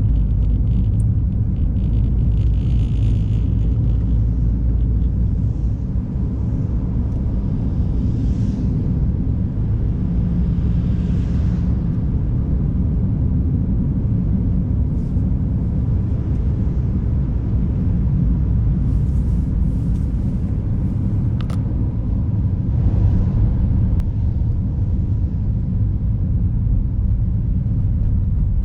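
Steady low rumble of a car driving on an icy, snow-covered road, heard from a camera mounted in the car, with brief hissing swells now and then.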